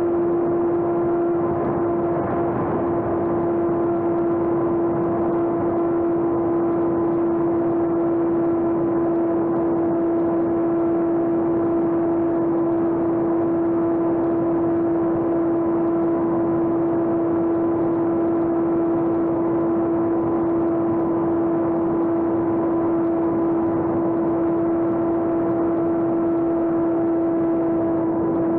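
Homemade RC airplane's electric motor and propeller running at a steady throttle: one unchanging whine with overtones over a haze of rushing air.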